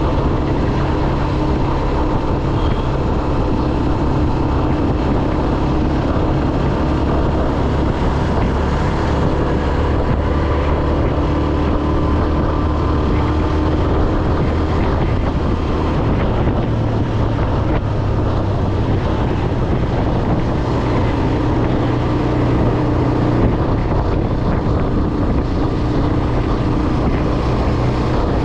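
Motor vehicle engine running steadily with road and wind noise, a continuous low hum that shifts slightly in pitch about halfway through.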